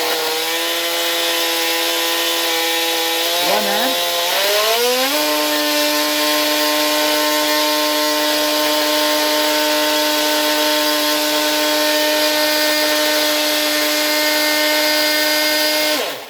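Brushed 390-size electric motor of an RC torpedo boat running on the bench: a steady, noisy whine that dips briefly about four seconds in, then speeds up to a higher steady whine and cuts off suddenly near the end. At the top speed it draws about 5 amps on 8 volts, a lot for this old 7.2-volt motor, which the owner fears may burn out like the last one.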